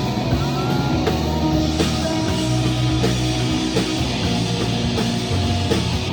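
A live rock band playing an instrumental passage: electric guitars and bass over a drum kit, with drum hits coming at a regular beat.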